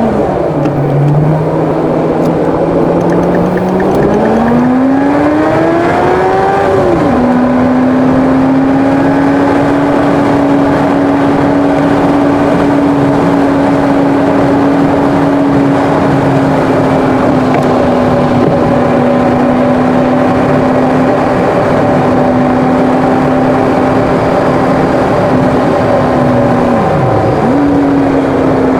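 Car engine accelerating on an expressway, its pitch climbing for a few seconds and then dropping at a gear change about seven seconds in. After that it holds a steady drone at cruising speed over tyre and road noise. Near the end the pitch dips briefly and comes back up.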